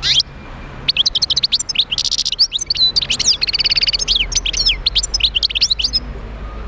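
European goldfinch singing: a fast, twittering song of quick high chirps with a buzzy trill in the middle. A short burst right at the start, then continuous song from about a second in, stopping about a second before the end.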